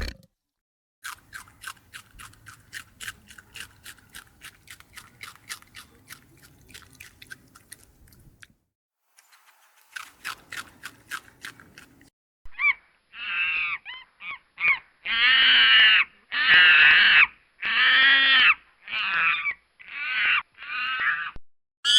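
A bird, most likely a farm fowl, calling loudly about ten times in a row in the second half, each call arching in pitch. Before that comes a long run of quick, sharp clicks.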